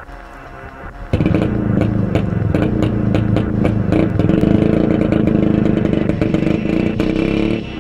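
IZh two-stroke motorcycle engine running quietly, then opened up sharply about a second in and held at high revs, with scattered clicks and clatter over it.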